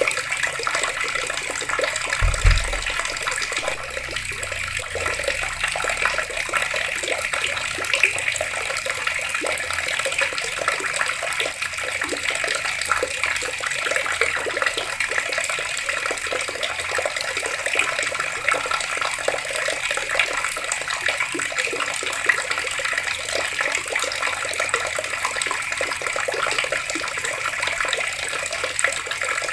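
Water running steadily from taps and splashing, with a single low thump about two seconds in.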